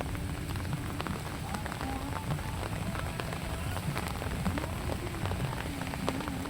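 Rain falling steadily on surfaces, with many individual drops ticking close by. A faint wavering tone runs underneath.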